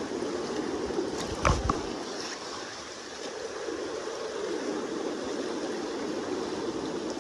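Steady rushing of the Kenai River's current, with a short sharp knock about one and a half seconds in.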